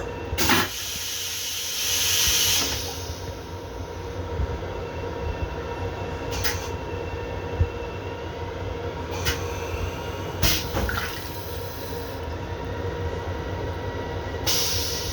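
Long Island Rail Road M7 electric railcar running with a steady rumble, and a loud hissing whoosh of the restroom toilet flushing in the first few seconds. A few short hisses follow later, the last near the end.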